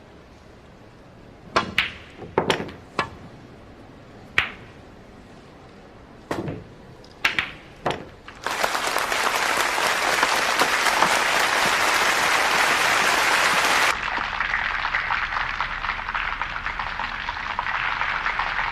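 Several sharp, separate clacks of billiard balls being struck, then applause breaks out about eight seconds in, loud for about five seconds and then continuing a little softer.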